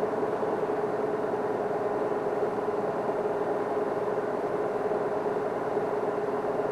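Safari vehicle's engine idling steadily, an even running sound with one held tone.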